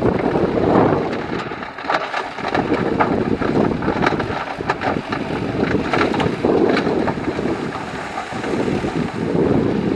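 Heavy diesel earthmoving machinery running, with a string of short metallic clanks through the middle of the clip and wind buffeting the microphone.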